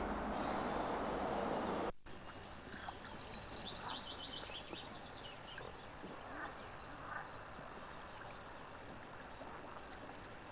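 A loud, even rushing noise for about two seconds that cuts off suddenly, then quieter outdoor ambience with small birds chirping, including a quick run of falling notes a few seconds in.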